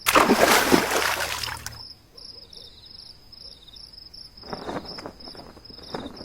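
Water splashing: a loud splash and churn of water lasting under two seconds, then smaller splashes about four and a half seconds in and near the end, over a faint high, evenly repeated chirping.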